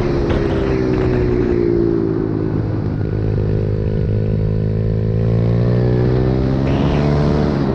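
Pit bike's small single-cylinder engine under way, its pitch falling over the first two seconds, then climbing steadily as it accelerates, with a quick dip and rise again near the end.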